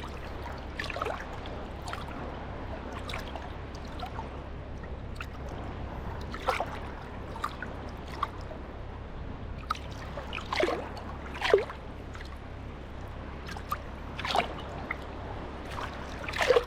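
Sea water lapping at the shoreline, with irregular gurgles, plops and small splashes, the loudest about eleven seconds in and near the end.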